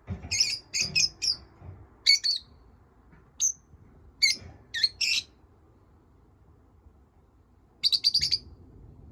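Small pet parrots chirping: short, sharp high chirps in quick clusters, then a pause of about two seconds before a fast run of chirps near the end.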